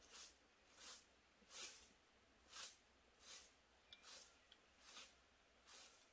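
Faint rhythmic swishing or scraping strokes, about eight of them, one every three-quarters of a second.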